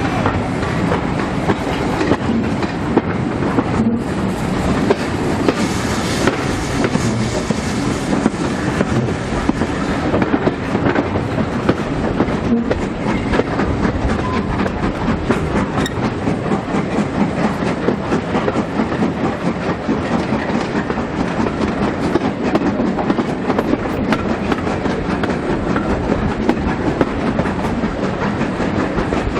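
Steam-hauled heritage passenger train running along the line: a steady rumble of carriage wheels on the rails with a continuous clickety-clack over the rail joints.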